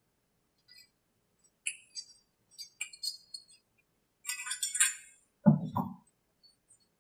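Small metal tools and hardware clinking in a few short taps, then a denser rattle, followed by a dull knock about five and a half seconds in.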